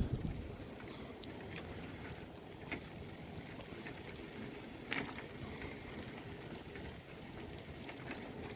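Steady hiss of a bicycle on the move, with a few sharp clicks, the clearest about three and five seconds in.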